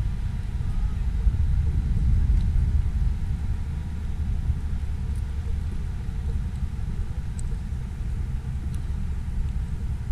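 Wind buffeting the microphone in a snowstorm: a steady low rumble, with a few faint ticks.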